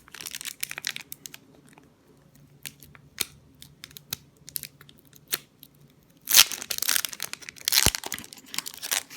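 Foil Pokémon booster pack crinkling as it is handled, then torn open in two loud rips about six to eight seconds in.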